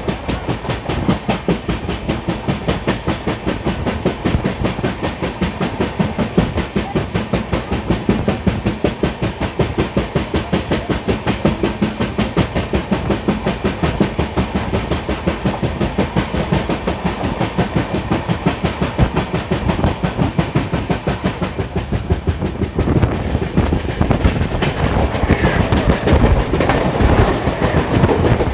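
Jan Shatabdi Express passenger train running at speed, its wheels clattering in a quick, even rhythm over the rail joints. The clatter grows louder about five seconds before the end.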